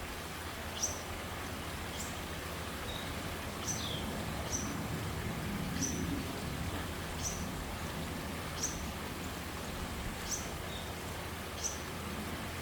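A bird's short, high chirp, sliding downward, repeated about once every second or so, over a steady low background hum.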